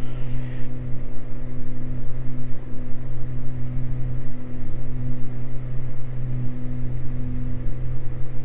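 Beechcraft G58 Baron's two six-cylinder engines and propellers droning steadily at climb power inside the cabin, the tone swelling and fading slowly as the two engines beat against each other.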